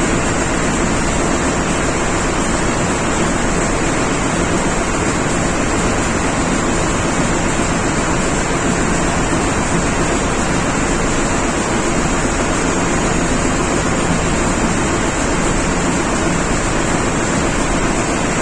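Steady, loud engine-room machinery noise from running diesel engines: an even din with no breaks and a faint steady high hum over it.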